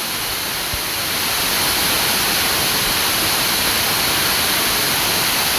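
Steady rushing of a waterfall, growing slightly louder about a second and a half in.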